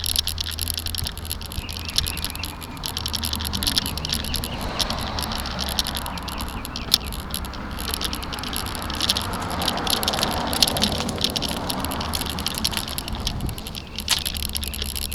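Bike-mounted camera rattling and clicking fast and unevenly on its mount from road vibration while riding, over a steady low rumble. A rushing noise swells up a few seconds in and fades again near the end.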